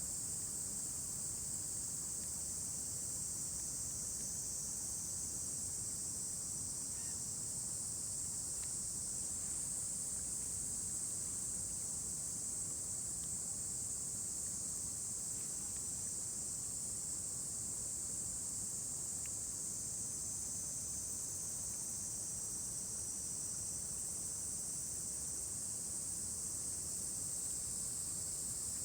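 Steady, high-pitched chorus of summer insects, a continuous shrill buzz. A few faint ticks come through beneath it.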